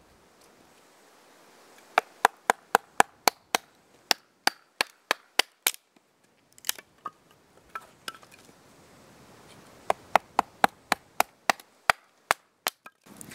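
Axe tap-splitting firewood against a rock: quick, light, sharp strikes, about four a second, in two runs separated by a few seconds of scattered taps.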